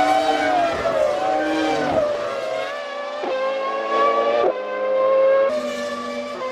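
Formula One cars' 3-litre V10 engines running at high revs, the pitch dropping and then stepping with several sudden breaks, typical of gear changes.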